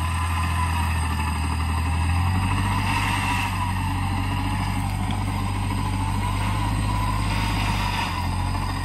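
Off-road vehicle's engine running steadily, its low note shifting about two seconds in and again near the end, with a faint wavering whine above it.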